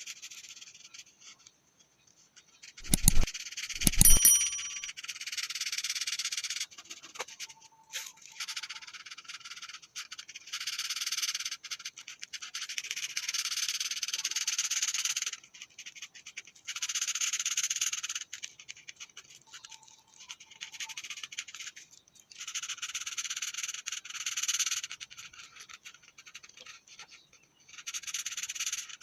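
A drawing tool scratching on paper in strokes of one to three seconds with short pauses between them, as a picture is drawn and coloured in. Two sharp knocks about three and four seconds in are the loudest sounds.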